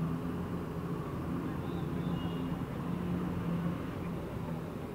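Motor vehicle engines running steadily, a low drone with a held hum over constant street rumble, with a few faint high tones about two seconds in.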